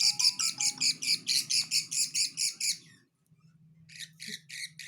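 Unfeathered two-week-old lovebird chicks chirping in a fast, even series of high chirps, about seven a second, breaking off for about a second near the middle and starting again.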